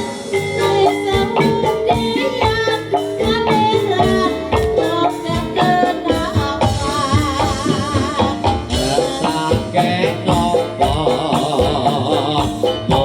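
Live jaranan dangdut music: a wavering, vibrato-laden melody over a quick, busy drum beat with rattling percussion.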